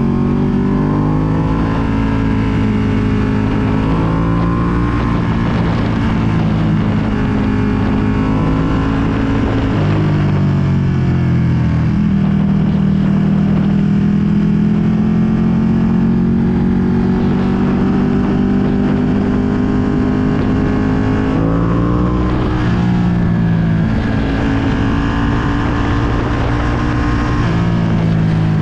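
2020 Ducati Panigale V2's L-twin engine through a full Akrapovic exhaust, under way. It pulls up with rising pitch, drops back at each gear change, and holds a steady cruise for several seconds in the middle before more shifts and another pull near the end. Wind rushes over the microphone throughout.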